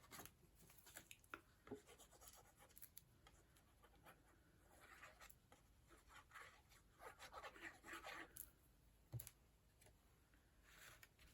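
Near silence with faint rustling and light taps of paper and card being handled, the rustling densest between about five and eight seconds in, and one sharper tap about nine seconds in.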